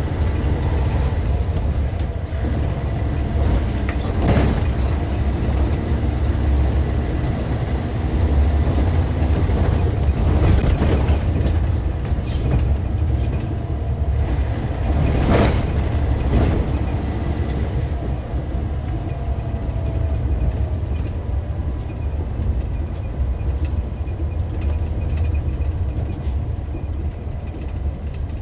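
Hyundai D6CC Powertec 380 straight-six diesel engine of an intercity coach running under way: a steady deep rumble that eases off slightly near the end. Several sharp knocks or rattles come through, the loudest about fifteen seconds in.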